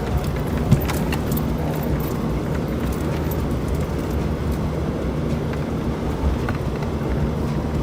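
Off-road vehicle's engine running steadily under load as it drives up a rough dirt track. There is a loud knock about a second in, and scattered small rattles and clicks from the vehicle.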